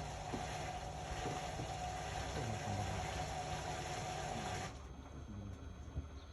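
Indesit Innex BWE 91496X washing machine with a steady rush of water and a hum, which cut off suddenly about three-quarters of the way through, leaving the quieter sound of the machine.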